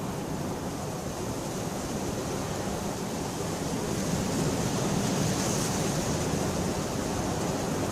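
Steady rain, a dense even hiss that grows a little louder partway through.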